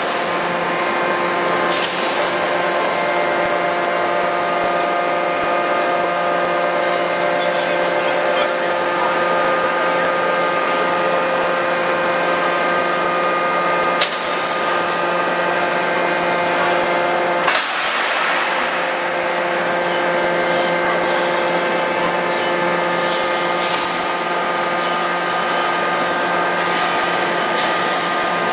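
Forging-hammer machinery running with a steady hum made of several held pitched tones, broken by a few short sharp knocks.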